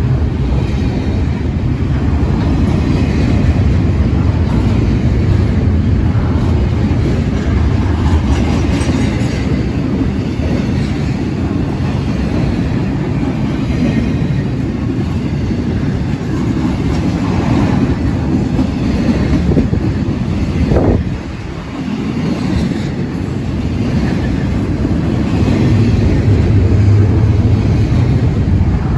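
Double-stack intermodal freight train rolling past at close range: a continuous rumble and rattle of the container-laden well cars' wheels on the rails. The noise dips briefly about three-quarters of the way through.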